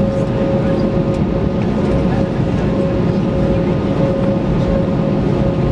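Airbus A321neoLR cabin noise on the ground just after landing: a steady rumble with a constant hum running through it.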